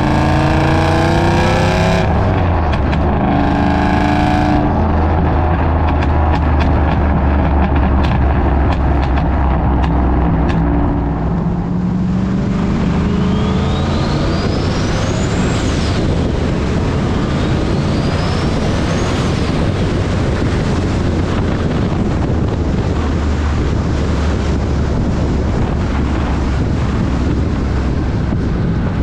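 Turbocharged Ford 4.6 four-valve modular V8 driving under load, its revs rising and falling through the first ten seconds or so. The sound then thickens into a harder, noisier pull, with two high whistles that climb and cut off sharply a few seconds apart.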